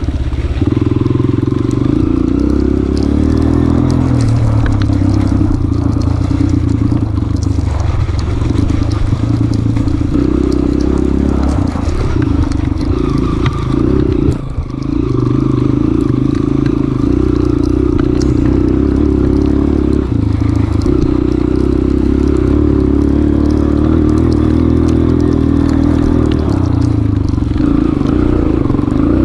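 Honda CRF230F trail bike's air-cooled four-stroke single-cylinder engine running under load, its pitch rising and falling with the throttle, with a brief drop about halfway through as the throttle is rolled off.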